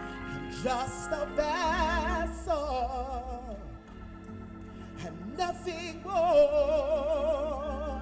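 A worship singer's wordless vibrato ad-lib over sustained organ and keyboard chords: a phrase that slides downward, then a long high note held with wide vibrato.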